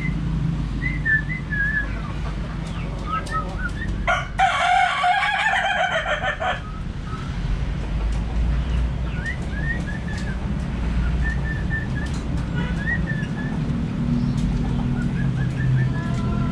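Budgerigars chirping in short, high, scattered notes, with one loud long call of about two seconds, about four seconds in, over a steady low hum.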